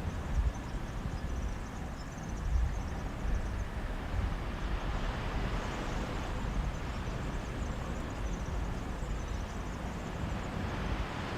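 Mediterranean sea waves washing on a beach in a steady wash of noise, with sea breeze gusting on the microphone as a low, uneven rumble, heaviest near the start and about two and a half seconds in.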